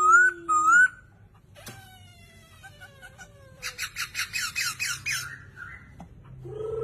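A Poksay Hongkong songbird singing. It opens with loud, repeated rising whistles, then a run of falling whistled glides, then a fast rattling trill about four to five seconds in, and a new whistled phrase starts near the end.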